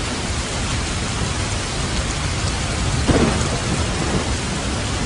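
Heavy rain falling steadily, with a low rumble of thunder about three seconds in.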